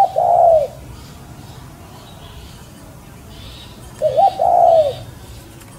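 A bird giving a low two-part call twice, about four seconds apart: a short note, then a longer arched one. Fainter, higher chirping of other birds goes on underneath.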